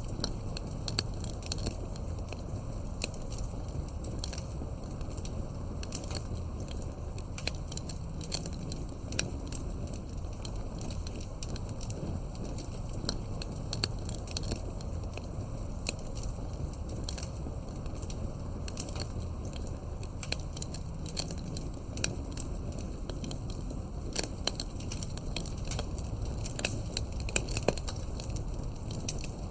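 Campfire crackling: a steady low rumble of burning wood with many quick sharp pops and snaps scattered irregularly, a few louder ones near the end.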